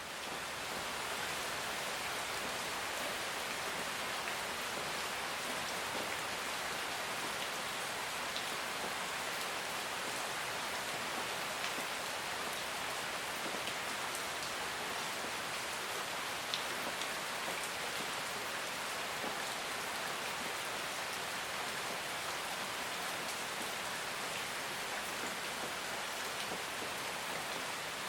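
Steady rain falling, a dense even hiss with scattered drop ticks, fading in over the first second.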